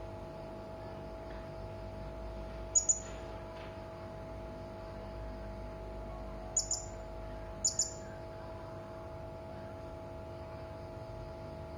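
Hanging parrot (serindit) giving three pairs of short, sharp, very high-pitched calls, spaced a few seconds apart, over a faint steady hum.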